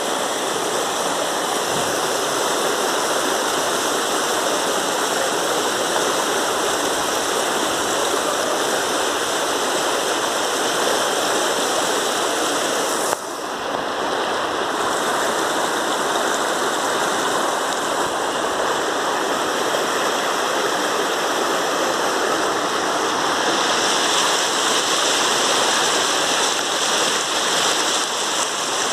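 Heavy rainstorm water rushing steadily, like a flooded stream, with rain falling; the sound dips for a moment about halfway through.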